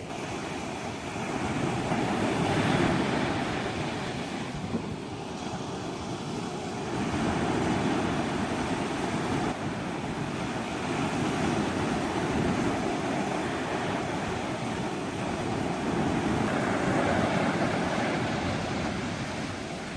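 Sea surf: waves washing in and breaking, the rush swelling and easing about every four to five seconds, with wind.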